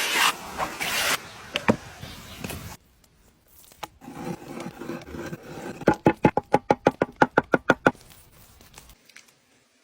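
A knife chopping on a wooden cutting board in a fast, even run of about fourteen strokes, roughly seven a second, about six seconds in. Before it come a stretch of rustling noise and a few scattered knocks.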